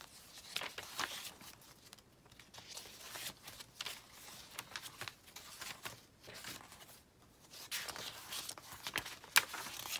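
Paper pages of a handmade junk journal being turned and handled: soft rustling and crinkling of paper, with a sharp click about nine seconds in.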